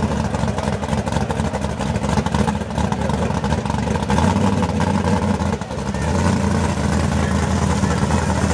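Drag race car engines running with a steady low rumble.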